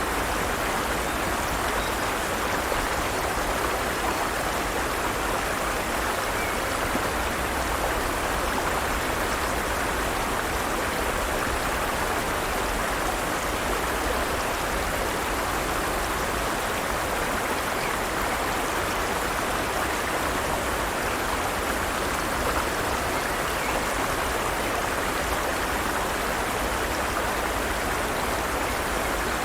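Forest stream: water running and splashing over rocks, steady and unbroken.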